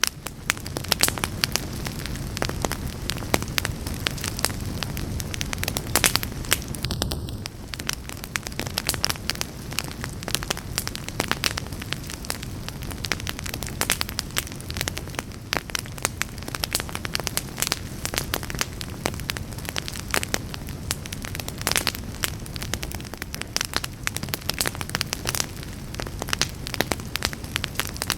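Fire burning in a fireplace: a steady low rush of flame under frequent, irregular sharp crackles and pops.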